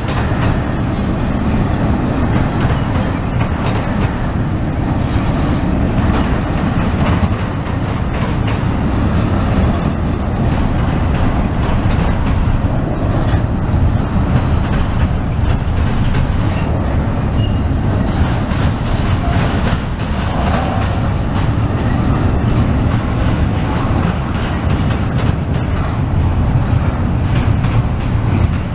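Double-stack intermodal freight train of container well cars rolling past at a grade crossing: a steady, loud rumble and clatter of steel wheels on the rails, unbroken throughout.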